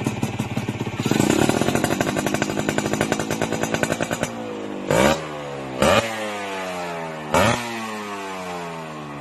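Two-stroke underbone motorcycle with a TNX racing exhaust, revving hard with a rapid crackling note for about four seconds. The pitch then falls steadily, broken by three short, sharp throttle blips.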